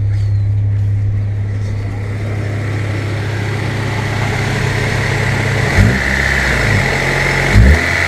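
Honda D16Y8 four-cylinder engine idling evenly, then blipped twice by the throttle near the end, each rev rising and falling quickly. With new spark plug wires fitted, the cylinder misfire is gone and it runs smoothly.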